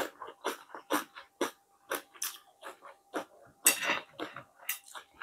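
A person chewing fried fish close to the microphone: wet mouth smacks and clicks about twice a second, with a louder smack a little under four seconds in.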